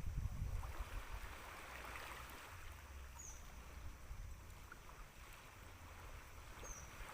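Wind rumbling on the microphone over a steady wash of water at the shore. Two brief, faint, high chirps come about three seconds in and near the end.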